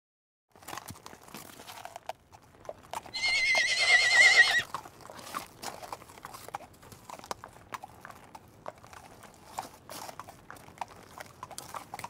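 Zebra giving one high, wavering, whinny-like call about three seconds in, lasting about a second and a half; it is the loudest sound. Hoof knocks and clicks run through the rest.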